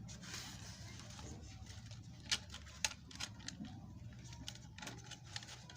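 A scattering of light clicks and taps, two of them sharper about two and a half seconds in, over a low steady hum.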